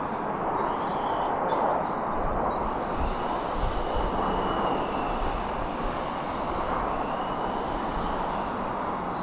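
A train passing on the main line: a steady rush of wheel-and-rail noise that holds through the whole stretch, with some low rumble in the middle.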